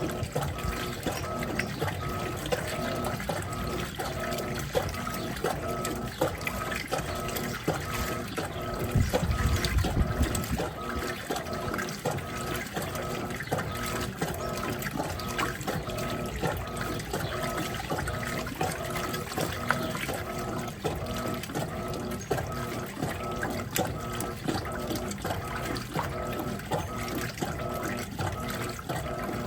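Electrolux top-load washing machine agitating in the softener rinse: the agitator swings back and forth in the full tub in a steady rhythm, its motor whirring and the water sloshing. A louder low surge of water comes about nine seconds in.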